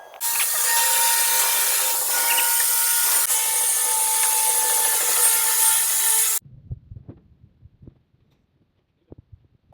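A power tool running steadily with a loud rasping hiss for about six seconds, then cutting off abruptly, followed by a few faint knocks.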